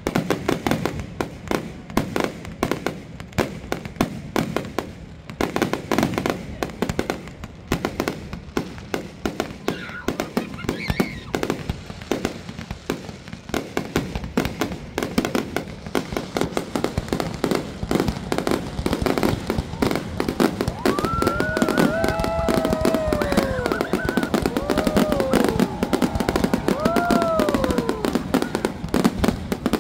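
Fireworks display: a rapid, continuous run of shell bangs and crackling bursts, getting denser and louder in the last third.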